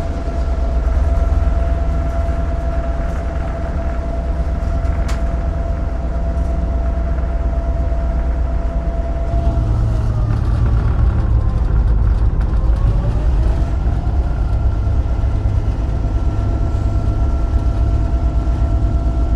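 GP38-2 diesel locomotive running under way, heard from the cab as a heavy, steady rumble with a thin whine on top. About halfway through, the whine glides down in pitch and then comes back up.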